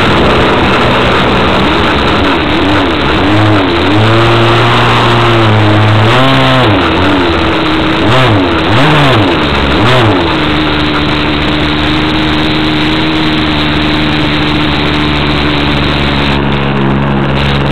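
Two-stroke model airplane engine (Avistar 53) running loudly, its pitch swinging up and down several times in quick succession through the middle, then settling to a steady note for the rest.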